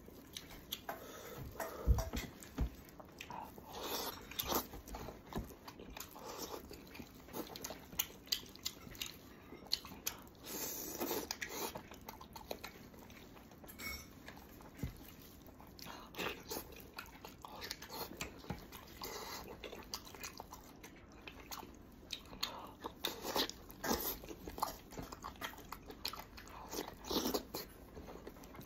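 A person biting and chewing braised pig's head meat and skin at close range, an irregular run of short bites and chews.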